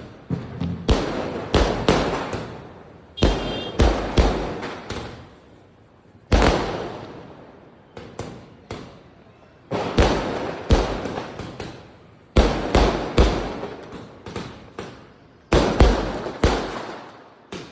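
Diwali firecrackers going off in an irregular series of loud, sharp bangs, each followed by an echo that dies away over a second or so. Some come singly with pauses of up to two seconds, others in quick runs of two to four.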